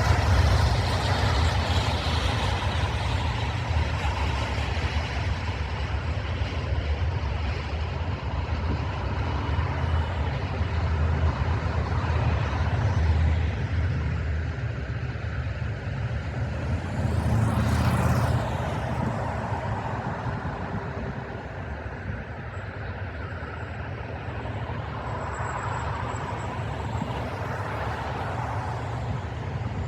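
Airbus A330-300's twin Rolls-Royce Trent 700 jet engines at takeoff thrust: a loud, steady roar with deep rumble. It swells briefly past the middle with a sweeping, phasing whoosh, then eases off slightly.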